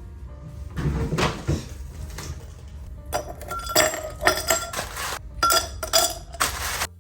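Kitchen utensils scraping and clinking against cookware, with a quick run of sharp ringing clinks in the second half that cuts off abruptly at the end.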